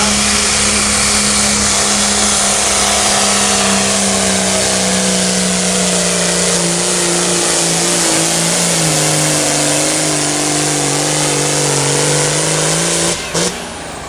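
A pulling tractor's engine running flat out under heavy load, its pitch sagging slowly as the sled bogs it down. It cuts off abruptly near the end.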